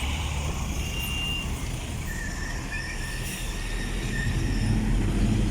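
ZIL-130 truck's V8 petrol engine running as the truck passes, a low rumble that grows louder about four seconds in as it draws nearer.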